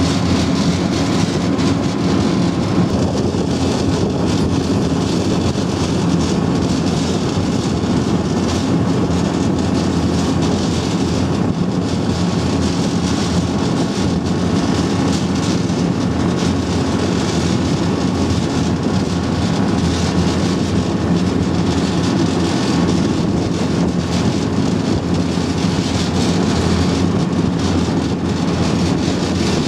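Engine of a Type 94 waterfront mine-laying vehicle running steadily under way, heard on board, with a constant droning hum and rushing noise.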